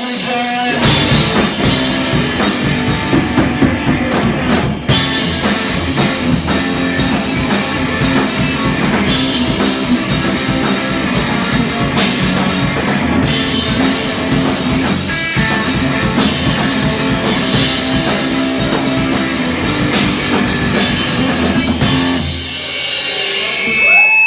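Live rock band playing with drum kit, bass and guitar; the song stops about 22 seconds in, leaving a few held notes ringing near the end.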